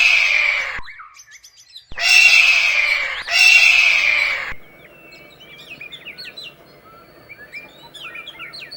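Eagle screaming: three loud, harsh screeches of about a second each, falling slightly in pitch, two of them back to back. From about halfway through, only faint quick chirps of small birds are left.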